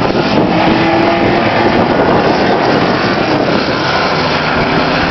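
A 1990 Ford Mustang GT's 5.0-litre V8 and a Subaru WRX running at full throttle down a drag strip, a loud, steady engine noise.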